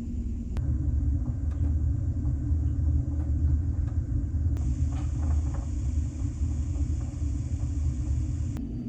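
Steady low rumble of a large car ferry under way, heard on board, with a few light clicks. A high hiss starts about halfway through and stops just before the end.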